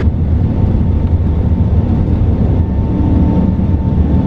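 Airbus A380 airliner cabin noise: a steady, loud, deep rumble of the Rolls-Royce Trent 900 engines and airflow, with a faint steady high whine.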